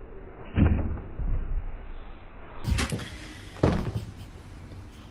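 Three heavy bangs: one about half a second in, then two more close together a little past the middle.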